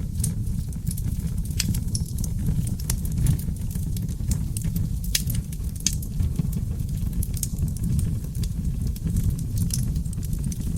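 Wood fire in a fireplace burning steadily, the flames giving a low rumble while seasoned oak logs crackle with sharp pops at irregular intervals.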